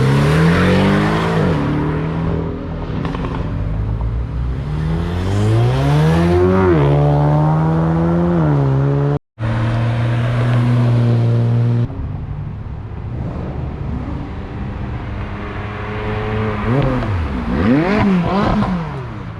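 Car engines revving hard and accelerating away, one after another, the pitch climbing through the gears in several sweeps. A brief cut-out about nine seconds in, then a held high note and another rising and falling rev near the end.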